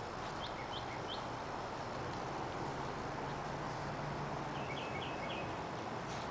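Steady outdoor background noise with a bird singing short phrases of three or four quick high notes, twice. A faint low hum runs through the middle.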